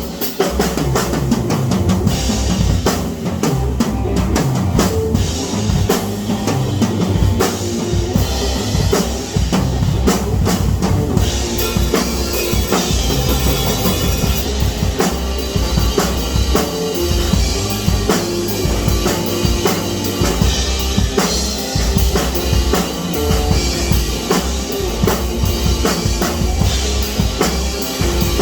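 Drum kit playing a steady, busy beat with bass drum and snare, with no pause.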